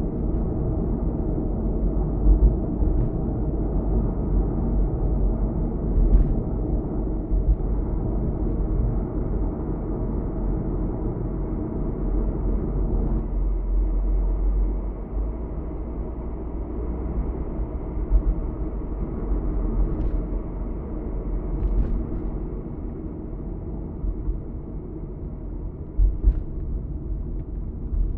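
Car being driven: a steady low rumble of road and engine noise, with a few short thumps.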